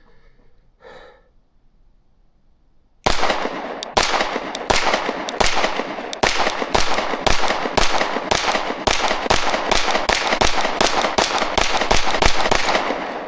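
A Kimber 2K11 Pro 9mm pistol fired in a fast, steady string of shots, about two to three a second, starting about three seconds in and running for roughly ten seconds. A soft breath is heard about a second in, before the shooting.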